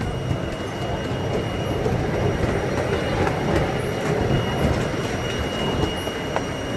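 Amusement-park ride-on train running along its track: a steady rumble of wheels on rails with faint ticks. A thin, steady high tone joins about two and a half seconds in.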